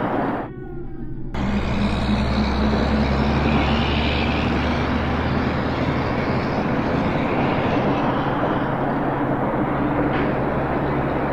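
A steady vehicle engine rumble with a low hum, dropping away briefly about half a second in and coming back at full strength just after a second.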